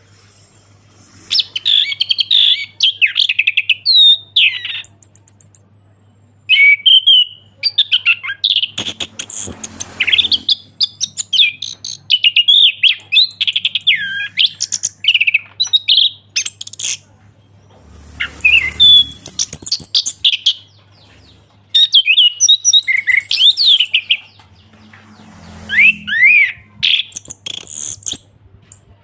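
Orange-headed thrush singing in full, loud voice: long phrases of rapid, varied whistles and chirps, broken by pauses of a second or two.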